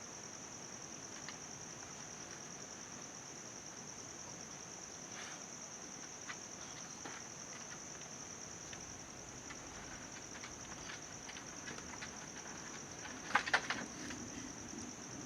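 A steady high-pitched insect-like trill, with scattered light clicks and a quick run of louder taps near the end.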